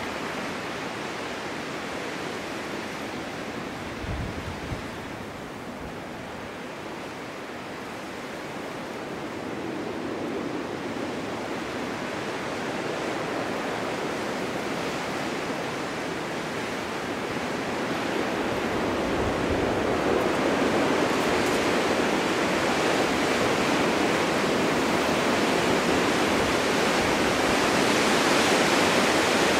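Snowstorm wind blowing in a steady rush that swells and grows louder through the second half, with a couple of brief low buffets on the microphone.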